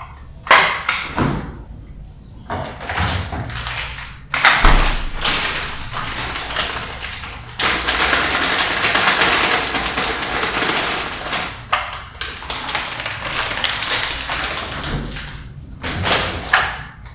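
Kitchen work sounds: a few sharp taps and knocks, then about ten seconds of steady rushing noise with a short break in the middle, and more knocks near the end.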